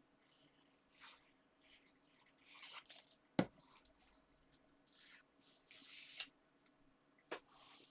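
Paper and card layers being handled and pressed together: faint intermittent rustles, with one sharp tap a little before halfway through.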